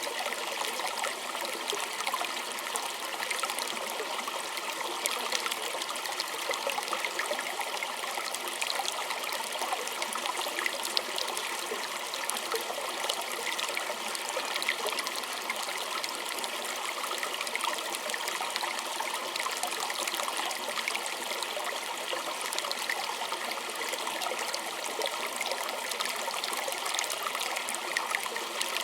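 Small creek trickling and splashing steadily, a dense patter of little splashes with no deep rumble.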